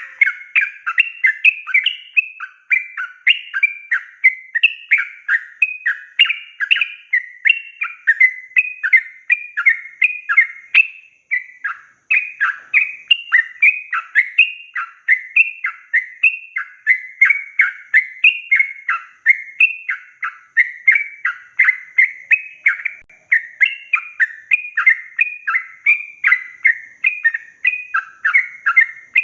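Sooty-headed bulbul (trucukan) singing a long, unbroken run of short, quick, downward-slurred chattering notes.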